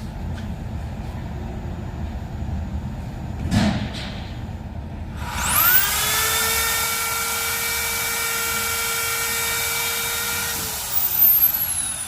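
High-speed power tool motor spinning up with a fast rising whine about five seconds in, holding a steady high whine for about five seconds, then winding down, over a low factory rumble with a single thump before it.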